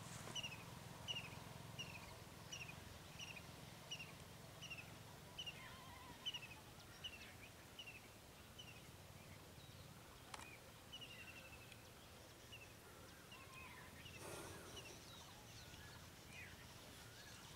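Faint bird calls. One bird repeats a short falling chirp about once every 0.7 seconds for the first half, and after that come scattered, varied call notes.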